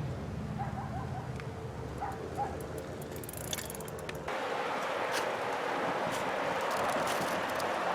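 A few short bird calls over a low steady hum, then an abrupt change about four seconds in to a louder, steady hiss with scattered clicks.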